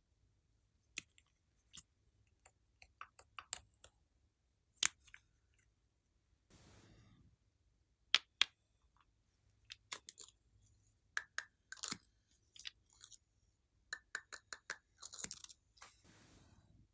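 Slime being squeezed and kneaded by hand, giving off irregular sticky clicks and pops, with a short soft rustle about seven seconds in.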